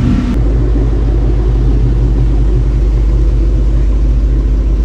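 A car engine running steadily, a loud low rumble with a constant pitch.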